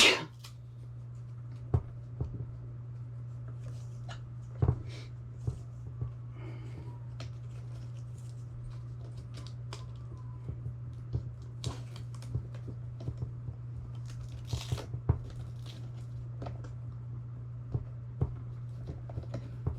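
Hands working on a plastic fishing-electronics shuttle: scattered clicks and taps with short rustling and tearing sounds of Velcro straps being handled, the longest about three-quarters of the way through. A steady low hum runs underneath.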